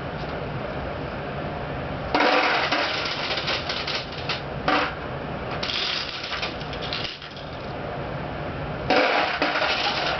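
Steel pachinko balls being poured into the machine's rear ball hopper, a dense metallic clatter that comes in three louder pours, about two seconds in, about six seconds in and near the end.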